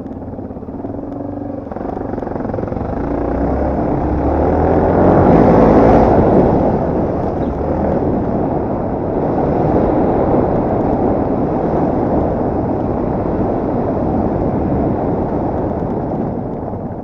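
Enduro motorcycle engine running under load, with a dense rush of noise over it that swells to its loudest about a third of the way in, then holds before easing near the end.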